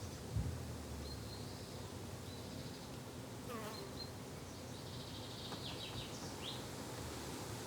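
Summer garden ambience: insects (flies and bees) buzzing steadily with a low drone, and small birds chirping high now and then. A soft low thump about half a second in, and a falling whistled call a little past the middle.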